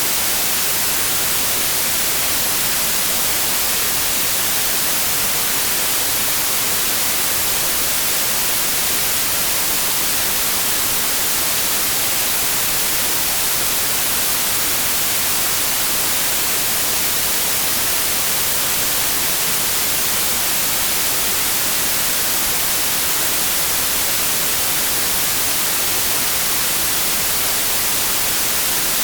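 Steady synthetic white noise: a constant, even hiss, heaviest in the treble, with no change or break.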